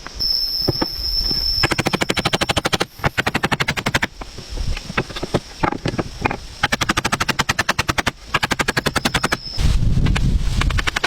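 A rapid mechanical rattle, like a machine gun, comes in several bursts of a second or so, with a thin high steady whine before the first burst and between the later ones. A louder low rumble starts near the end.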